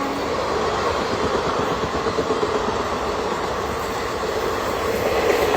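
A passenger express train rolling along the platform, with a steady rumble and the rattle of its wheels on the rails.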